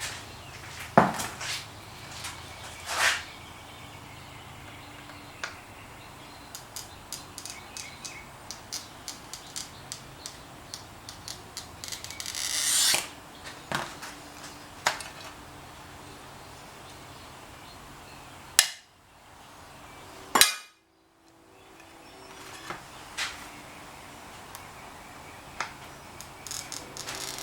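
Mirror glass being cut by hand: sharp clinks and taps of glass and tools, and one rising scraping stroke about halfway through, like a glass cutter scoring a line.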